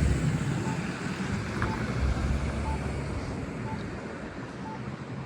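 Low rumble of passing road traffic with wind buffeting the microphone, swelling briefly about two seconds in. A short faint beep repeats about once a second.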